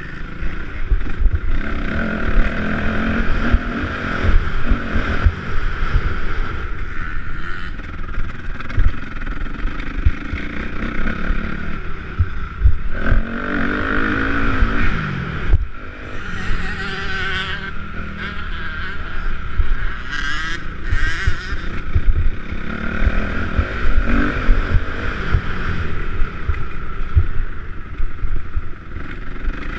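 Motocross bikes racing on the track, their engines revving up and down as riders accelerate and back off, with wind buffeting the microphone.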